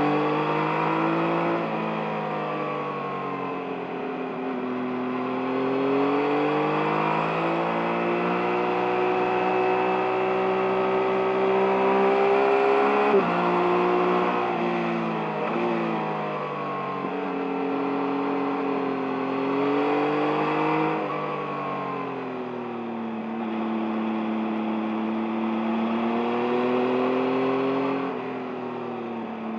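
2023 Yamaha MT-09's 890 cc inline-three engine under a riding load, its note climbing and falling again and again as the throttle is opened and rolled off. It drops abruptly about 13 seconds in.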